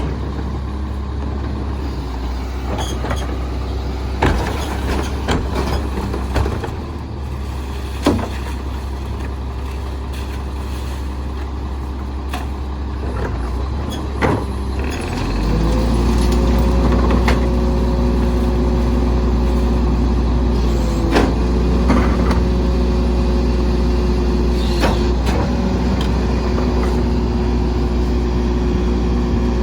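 Volvo Xpeditor rear-loader garbage truck's diesel engine idling, with scattered knocks and clanks. About halfway through the engine speeds up and holds a steady higher note, as it does when running the Heil PowerTrak packer's hydraulics.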